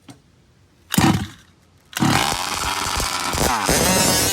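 Small nitro RC car engine (SH-18), buzzing in a short burst about a second in, then running hard from two seconds in with its pitch rising and falling as it is revved.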